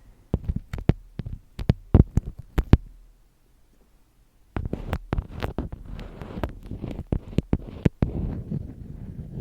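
Close-miked ASMR tapping and crinkling on small objects: a quick run of sharp taps, a pause of about a second and a half, then a denser stretch of crackly taps and rustling.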